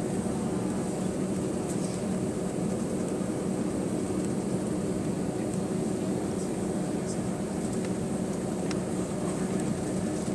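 Steady drone inside the rear cabin of an Airbus A320 with its two CFM56-5A3 engines running: an even rushing noise with a constant low hum and a faint high whine above it.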